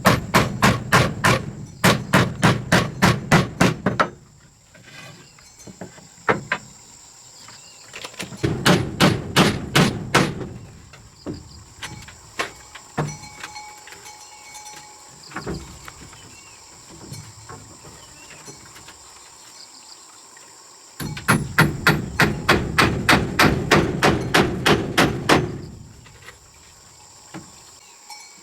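Rapid hand hammering at about four blows a second, in three runs of a few seconds each, with scattered single knocks in the pauses. A steady high-pitched tone runs underneath.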